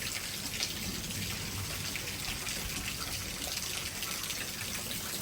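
Rain falling steadily during a thunderstorm, an even hiss with no breaks.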